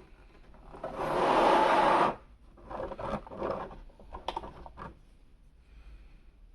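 Toy packaging being handled: a loud scraping rustle lasting about a second, then several shorter rustles and sharp clicks.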